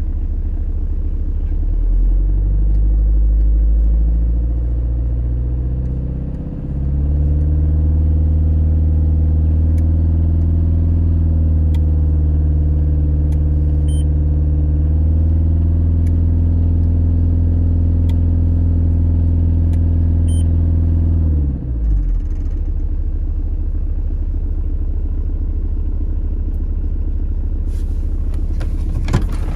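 2000 Citroën Berlingo 1.9 litre four-cylinder diesel engine running after a cold start at 0°C. Its note steps up about two seconds in and again around seven seconds, holds steady, then drops back to a low idle rumble about 21 seconds in. A brief rustle and clatter of handling comes near the end.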